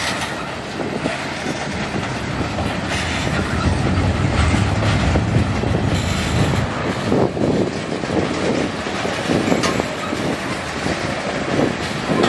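Freight cars of a manifest freight train rolling past: a steady rumble of steel wheels with repeated clickety-clack over the rail joints.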